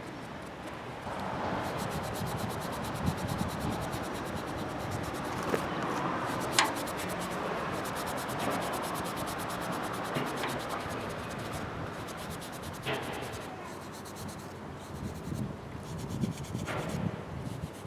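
Patina being rubbed by hand into the black-enamelled surface of a forged steel log holder: a continuous scrubbing rub, with a few sharp clicks along the way.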